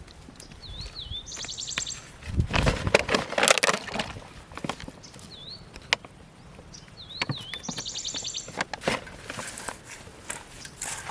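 A bird calls twice: a short wavering whistle, then a quick run of high buzzy notes. Between the calls come loud rustling crunches, the loudest about two to four seconds in, with more near the end.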